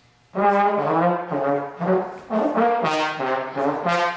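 A brass instrument, trombone-like, playing a loud run of about seven low notes, the pitch stepping and sliding between them.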